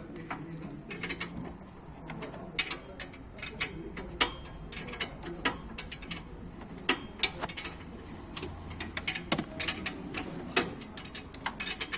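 Hand ratchet wrench clicking in short irregular bursts, with metal tools clinking, as the bolts of a car's exhaust pipe are tightened.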